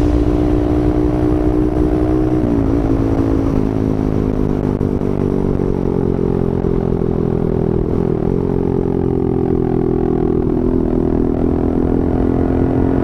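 Motorcycle engine running at a steady cruising speed, its pitch dipping briefly and recovering twice.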